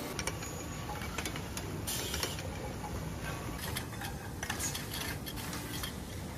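Factory machinery running: a steady low rumble with scattered metallic clicks and clanks, and a short hiss about two seconds in.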